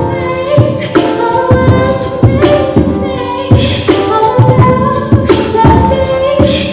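Live singing accompanied by beatboxing: a sung melody over a steady rhythm of vocal drum sounds.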